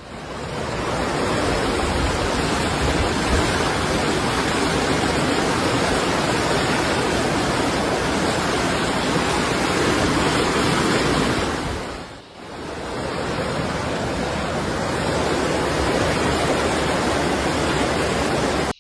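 Floodwater rushing fast, a loud steady roar of water that briefly drops away about twelve seconds in.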